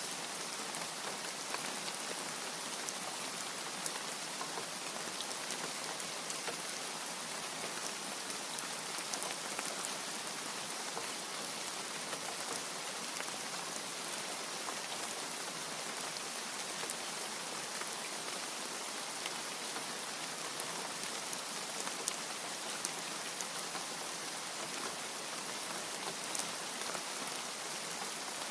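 Steady rain: an even hiss with scattered sharp drop ticks, without thunder.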